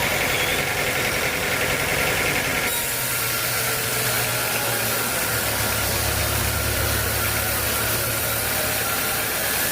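Sawmill machinery running with a steady engine-like noise; a higher-pitched part of the sound stops about two and a half seconds in, and a low hum comes in from about three seconds to nine.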